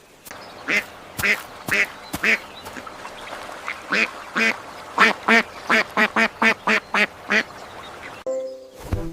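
Duck quacking: a run of short quacks, a few spaced apart at first, then a faster series of quacks in the middle of the clip.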